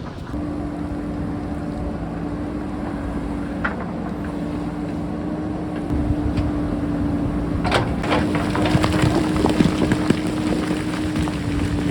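JCB backhoe loader's diesel engine running steadily under work, getting louder about halfway, with a few sharp knocks over it.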